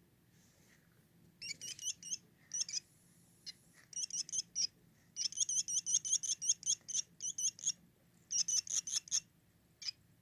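Baby barn swallow giving rapid, high-pitched chirps in quick runs with short pauses, starting about a second and a half in: a hand-raised nestling begging for food.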